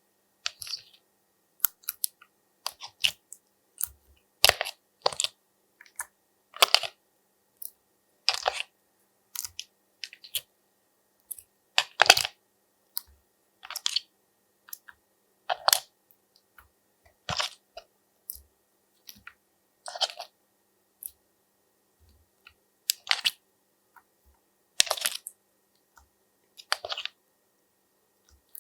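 Slime being worked by hand, giving short crackling pops about once a second with silence between them.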